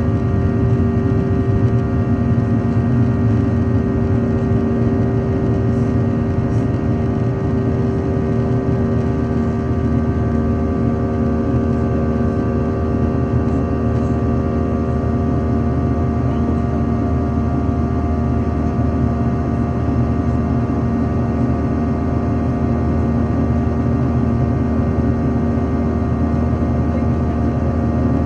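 Airliner's engines running with a steady, unchanging drone: a low rumble with several constant tones over it.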